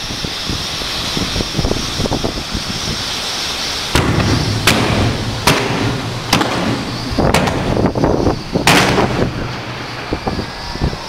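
Fireworks display going off: a series of about six sharp bangs starting about four seconds in and spread over some five seconds, over a steady background hiss.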